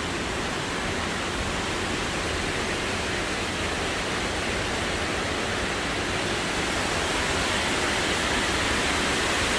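Steady rushing noise with no distinct events, slowly growing louder.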